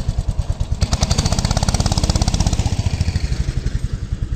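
Predator 212cc single-cylinder engine of a minibike running at a steady speed, a fast, even chugging from its exhaust.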